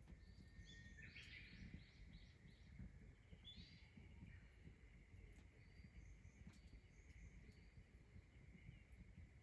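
Faint birdsong: quick runs of short, high chirps in the first two seconds and again about three and a half seconds in, with a few weaker calls later, over a low steady background rumble.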